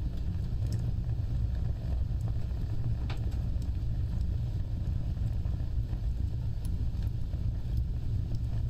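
A fire burning with a steady low rumble and scattered crackles and pops, one sharper pop about three seconds in.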